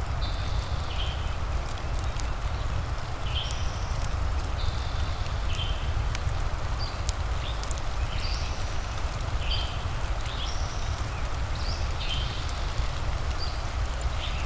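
Rain and fireplace ambience: a steady rush of rain over a deep low rumble, with scattered sharp crackling pops from the fire. Short high chirps recur about once a second throughout.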